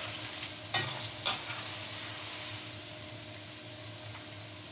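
Marinated chicken pieces deep-frying in hot oil with a steady sizzle. There are two sharp clicks about a second in, and a faint low hum underneath.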